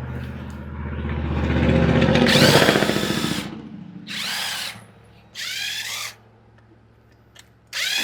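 Handheld power tool, such as a drill or impact driver, run in one long burst that swells and fades over the first three seconds or so. It is followed by three short trigger pulls, each spinning up and winding down.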